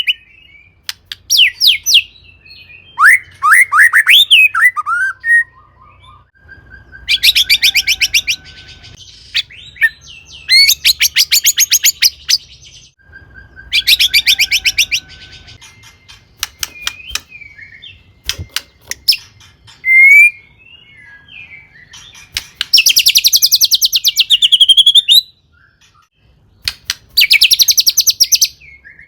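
White-rumped shama (murai batu) singing in loud, varied phrases: clear whistled notes that glide up and down, broken by several bursts of fast, rattling repeated notes, with short pauses between phrases.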